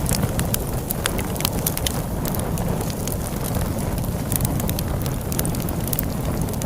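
Log fire crackling, with frequent sharp pops at irregular intervals, over a steady low rush of storm wind.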